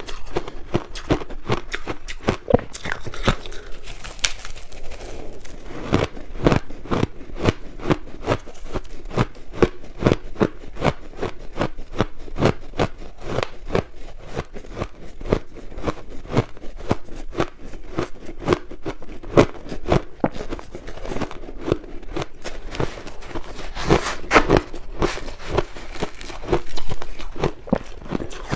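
Close-up crunching of crushed ice being bitten and chewed, a dense run of sharp, irregular cracks and crackles several times a second.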